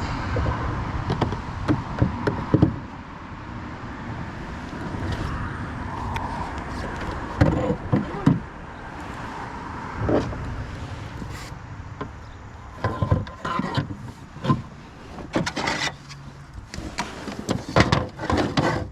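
Irregular knocks, clicks and rattles of fishing gear being handled in a kayak, over a steady low rumble.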